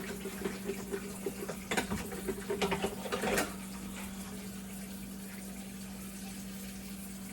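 Kitchen clatter: scattered knocks and short scraping strokes of a bowl and utensils being handled, which stop about three and a half seconds in, leaving a steady low hum.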